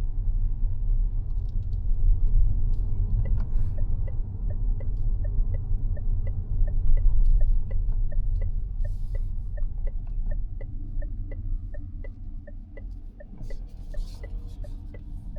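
Mazda 6e electric sedan driving with a steady low tyre-and-road rumble. About three seconds in, the turn-signal indicator starts its even two-tone tick-tock and keeps going while the rumble eases off as the car slows.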